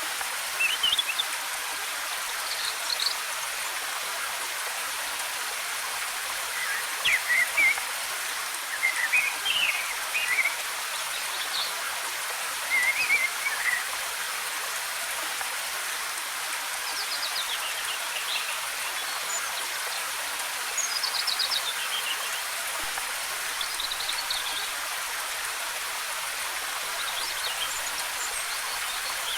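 Waterfall's water cascading in a steady rush, with forest birds singing short chirping phrases every few seconds over it.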